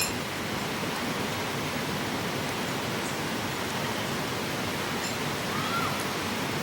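Steady, even rushing noise that does not change, with a faint short rising-then-falling whistle about six seconds in.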